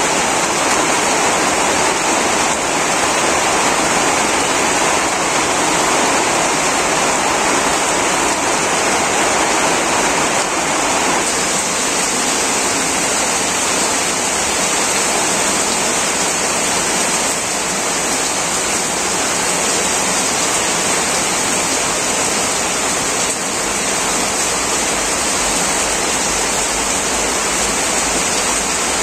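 Heavy rain pouring down steadily on corrugated tin roofs and dense foliage: a loud, even hiss that shifts slightly in tone about eleven seconds in.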